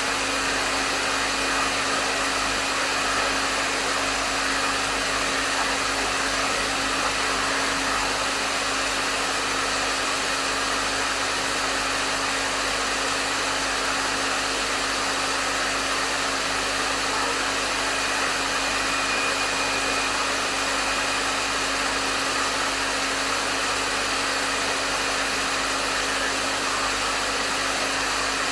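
Hair dryer running steadily: an even rush of airflow with a constant motor hum underneath.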